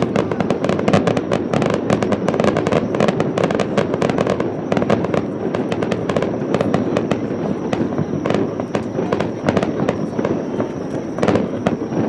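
Aerial fireworks display: many shells bursting in rapid, overlapping succession, a dense barrage of booms and crackles with no gaps.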